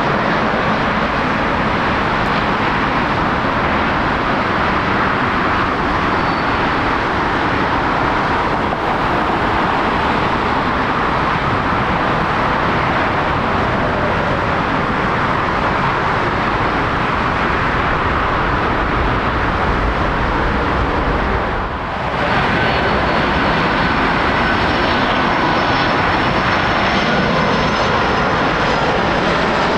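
Jet airliner engines: a loud, steady rushing noise. It dips briefly about three-quarters of the way through, after which a faint high whine runs over it.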